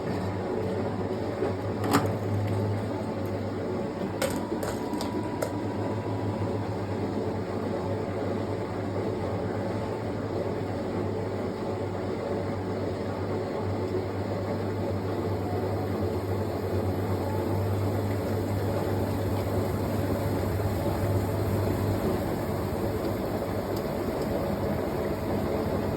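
Fisher & Paykel GW712 top-loading washing machine running, a steady hum and whirr with a sharp click about two seconds in and a few fainter clicks shortly after.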